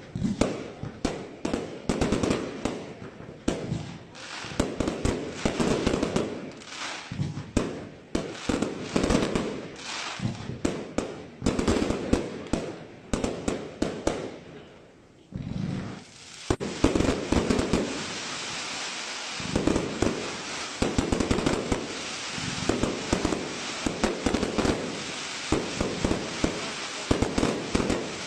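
Professional fireworks display: a steady run of shell bursts and bangs, a brief lull about halfway, then a dense, continuous barrage of many small rapid reports over a hissing crackle with heavier bangs through it.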